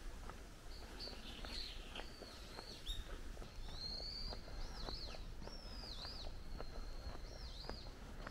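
A bird calling over and over with high chirps that swoop down and back up, more often in the second half, over soft footsteps on a stone path about twice a second and a low rumble.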